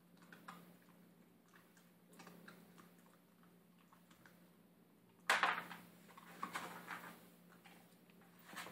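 Puppy eating dry kibble from a bowl: small crunching and clicking, with a louder clatter of food and bowl about five seconds in.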